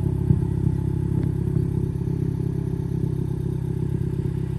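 Honda Civic's 1.5-litre turbo four-cylinder idling steadily through a straight-through exhaust, its muffler and resonator deleted and blast pipes fitted, giving a loud, even drone.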